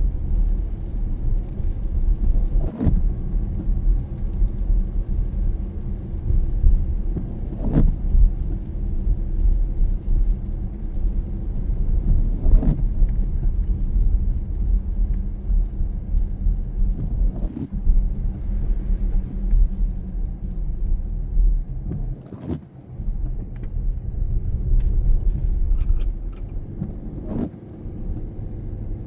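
Car cabin road and engine rumble while driving in the rain, with a short windshield-wiper sweep about every five seconds, the wipers on an intermittent setting.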